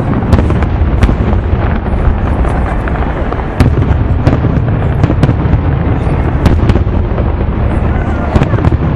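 Fireworks display: a continuous rumble of many aerial shells bursting, with frequent sharp cracks and a louder boom about three and a half seconds in.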